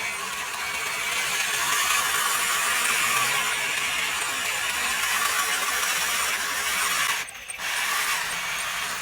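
Homemade RC tractor's small electric motor and gearbox whirring steadily, cutting out briefly about seven seconds in.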